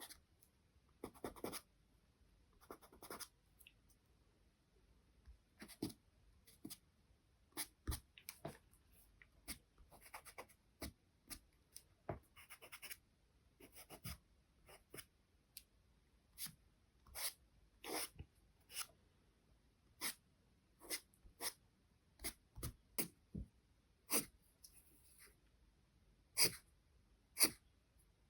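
Charcoal pencil scratching on paper in short, separate strokes, about one or two a second at an uneven pace, with a few louder strokes near the end.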